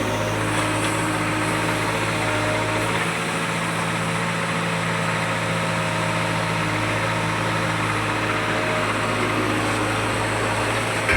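Diesel engine of a heavy farm or construction machine running steadily at a constant speed, with an even hum.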